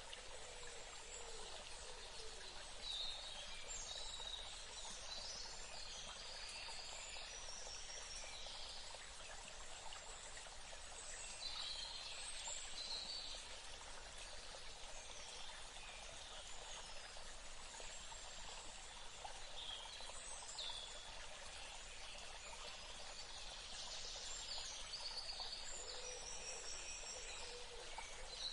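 Forest ambience: birds calling with short chirps and trills over a steady hiss, the calls thickest early on and again near the end.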